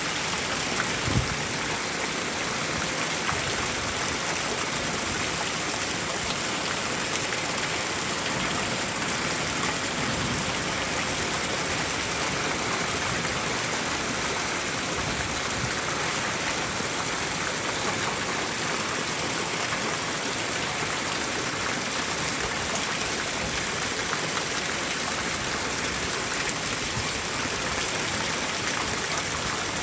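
Steady heavy rain, an even hiss of falling water, with one brief knock about a second in.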